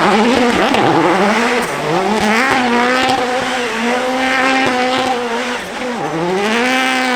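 W Motors Fenyr SuperSport supercar engine under hard acceleration. The revs climb and hold high and steady; about two seconds in and again about six seconds in they dip sharply and climb back.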